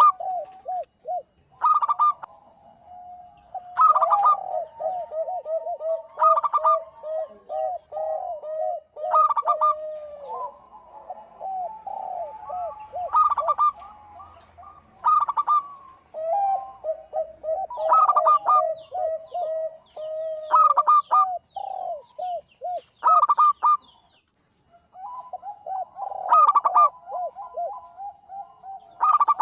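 Zebra doves (local perkutut) cooing: fast runs of short staccato coo notes that overlap one another, with louder, sharper notes about every two seconds and a brief pause about three-quarters of the way through.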